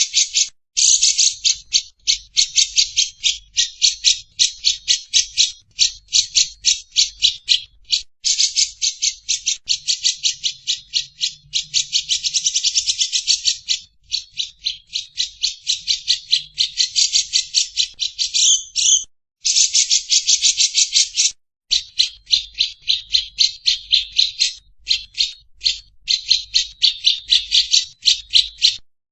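Lovebird giving its long 'ngekek' chatter: a fast, dry run of rapidly repeated harsh notes, several a second, going on in long strings broken by short pauses.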